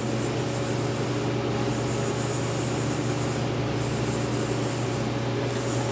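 Haas DT-1 CNC drill/tap center running: a steady machine hum, with a high whine that comes in twice as the axes move.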